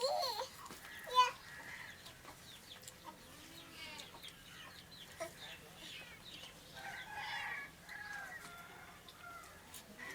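Chickens clucking: many short calls scattered throughout, the loudest about a second in.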